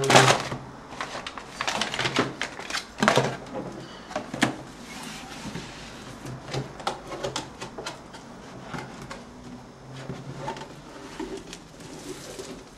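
Cardboard motherboard box and its packaging being handled: several sharp knocks and scrapes in the first few seconds, the loudest right at the start, then quieter rustling and small clicks.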